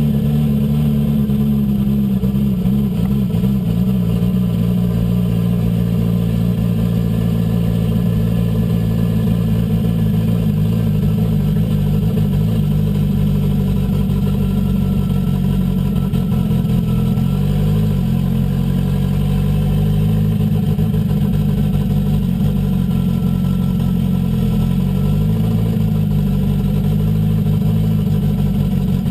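Renault 5 Turbo's turbocharged four-cylinder engine running steadily at low revs, heard from inside the car, its pitch wavering slightly a couple of times.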